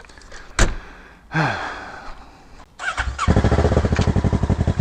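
An engine starts about three seconds in and then runs close by with a steady, rapid beat. A sharp click comes earlier, about half a second in.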